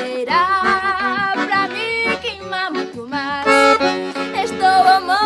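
Accordion playing a forró tune over a steady bass, with no sung words.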